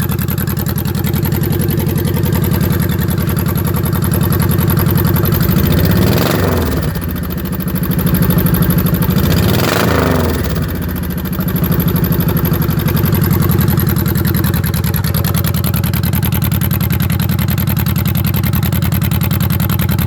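Honda VTX1800F's V-twin engine idling through a custom exhaust, blipped twice, about six and ten seconds in, each rev rising and falling back to idle.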